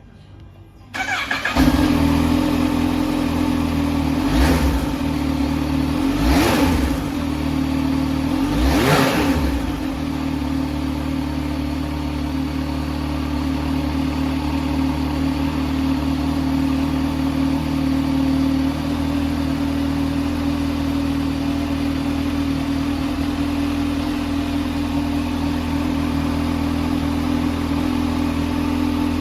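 Kawasaki Z H2 SE's supercharged 998 cc inline-four starting about a second in. It is revved three times in quick blips, then settles to a steady idle.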